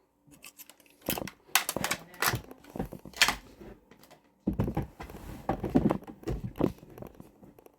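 Clicking and knocking from a toy trash truck and its plastic parts being handled: a run of sharp clicks and knocks, then from about halfway a rougher, lower rattling stretch.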